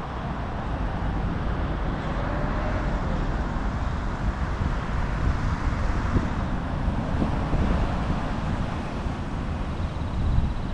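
Wind rushing over the microphone with steady tyre and road rumble from a moving mountain bike, with traffic noise in the background.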